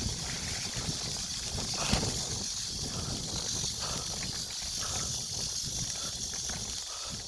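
Mountain bike being ridden along a forest trail: steady rumbling ride noise under a constant high hiss, with one sharp knock about two seconds in.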